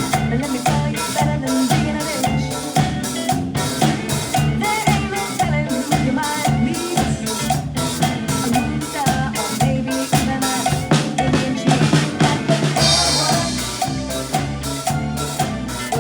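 Drum kit played to a steady beat, snare and bass drum hits over a backing track with a bass line.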